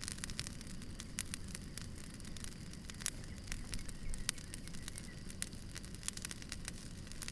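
Campfire burning: irregular sharp crackles and pops of burning wood, several a second, over a steady low rush of the flames.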